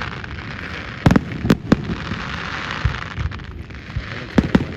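Aerial fireworks going off: several sharp bangs in a quick cluster about a second in and another cluster near the end, over a steady hiss.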